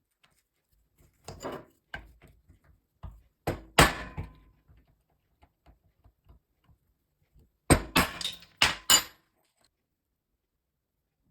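Workshop handling noises from restoring an old hand drill: scattered knocks and a clatter, then a quick run of four or five sharp knocks near the end.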